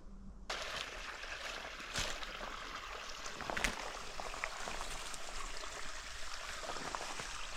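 Mountain stream rushing, a steady hiss that starts abruptly about half a second in, with a few sharp clicks over it.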